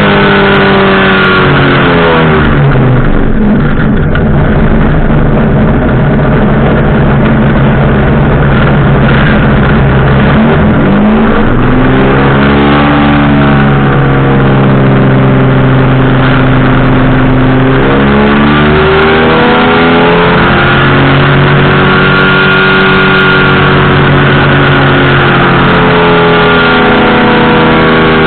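Powered parachute engine and propeller running loud and close to the microphone. The pitch drops a few seconds in, climbs again around the middle, dips and climbs once more, and shifts again near the end as the throttle is worked.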